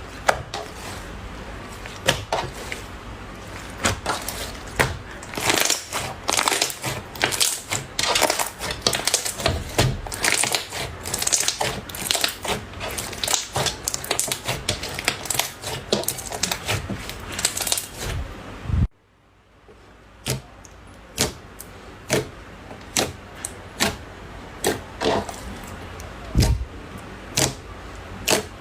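Hands squeezing, pressing and poking slime, making close-up sticky clicks, crackles and pops. The pops come thick and fast at first; after a sudden cut about two-thirds of the way in, they come as sharper single pops about once a second.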